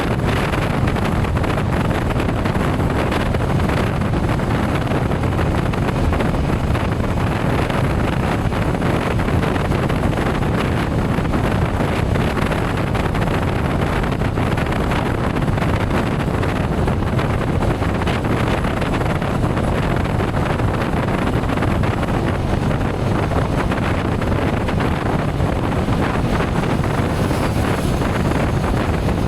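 Steady wind rush on the microphone during a motorcycle ride at speed, with the motorcycle's engine and tyre noise blended underneath, loudest in the low range and unchanging throughout.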